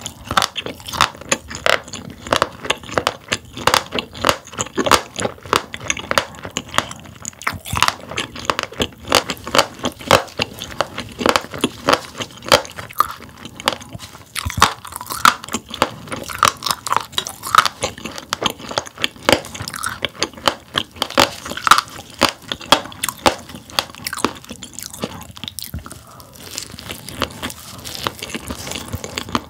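Close-miked chewing of grilled sailfin sandfish packed with roe: the firm roe crunches between the teeth in rapid, crisp clicks, several a second.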